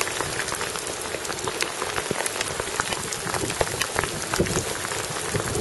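Heavy rain and hail hitting the camera and the rock: a dense, steady hiss full of small sharp ticks.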